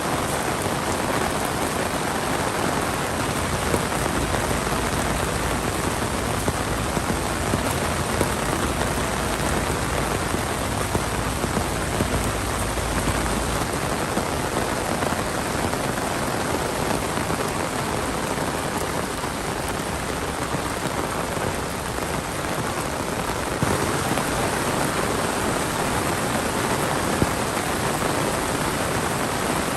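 Heavy monsoon rain falling steadily, a dense even hiss with scattered drop splashes.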